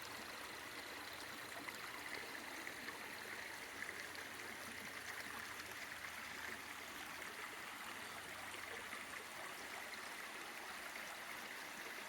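Rain-fed stream flowing steadily through a ditch: a soft, continuous rush and trickle of water.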